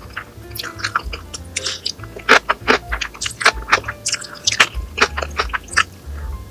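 A person chewing and biting food close to the microphone: many short, irregular clicks, over background music.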